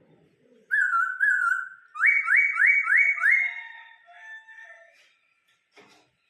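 Laughingthrush (khướu) singing loud clear whistles: two longer notes, then four quick rising whistles in a row, trailing off into softer warbling notes.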